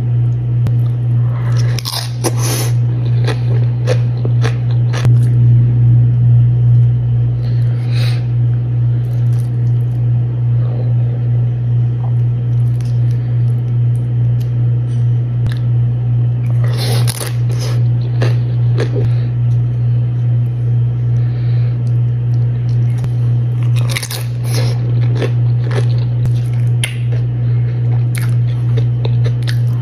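Crunching bites of tortilla chips and chewing, in clusters a few seconds apart, over a loud steady low hum.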